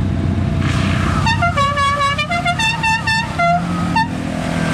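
Side-by-side UTV engine running steadily, and over it, about a second in, a quick run of short pitched notes of changing pitch that lasts a few seconds.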